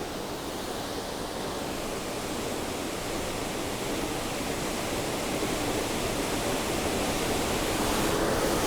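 Steady rushing roar of a large waterfall, growing gradually louder over the few seconds.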